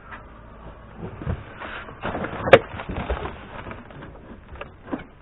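Scattered knocks and rustles of hands working at a Suzuki Kei's interior roof trim and headliner to pry it loose, with one sharp click about two and a half seconds in.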